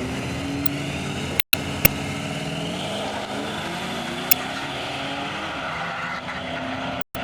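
Car engines at a drag strip, running with a pitch that climbs over the first few seconds, over a steady noisy background, with a few sharp clicks. The sound cuts out completely for an instant twice.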